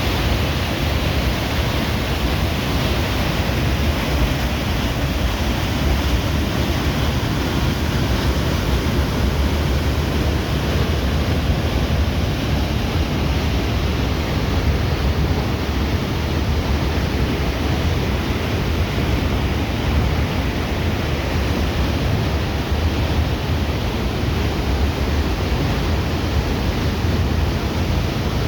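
Waterfall rushing with a steady, even roar that does not change.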